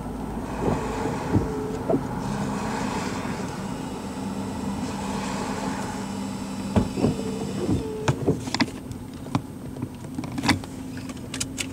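Steady hum and rush of a parked vehicle's cabin with its engine running. A few brief distant yells come near the start and again about two-thirds of the way through, and several sharp clicks follow in the last few seconds.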